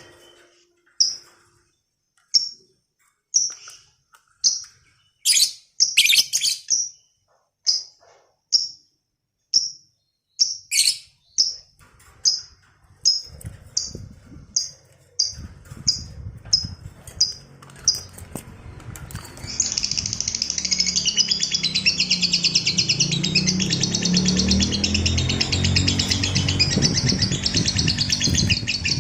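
Lovebird calling: single sharp high chirps that come faster and faster, then, about twenty seconds in, break into a long unbroken chattering trill, the 'ngekek panjang' (long ngekek) song used to lure and train other lovebirds.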